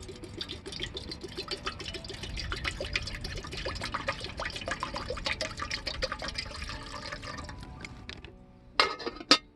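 Water being poured into a container for about eight seconds, splashing and gurgling, followed by two sharp knocks near the end.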